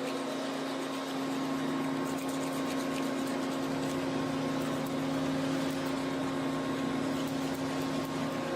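Steady mechanical hum of a running machine, with faint light ticking in the middle.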